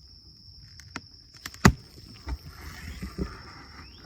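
A propolis-sealed wooden beehive being pried open: a series of sharp cracks and knocks, the loudest about a second and a half in.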